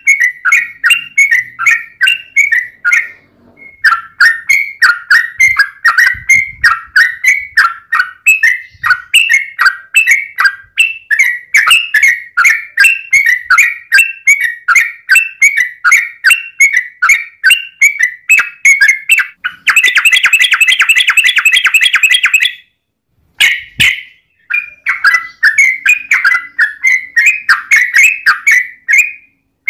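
Yellow-vented bulbul (trucukan) singing a long run of quick chattering notes, about three a second. About two-thirds of the way in, it breaks into a fast, dense trill for about three seconds. The song pauses briefly, then the chatter resumes.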